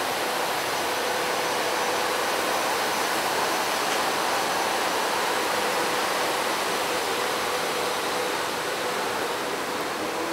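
SEPTA Silverliner IV electric commuter railcars rolling past a platform as the train departs: a steady rushing rail noise with a faint hum.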